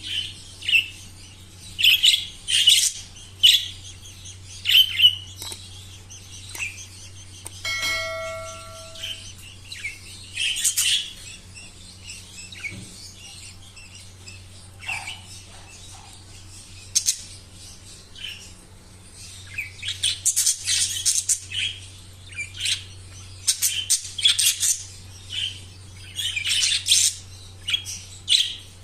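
Small pet parrots chirping and squawking in short, irregular calls throughout, over a steady low hum. About eight seconds in, a single bell-like ringing tone sounds for about a second.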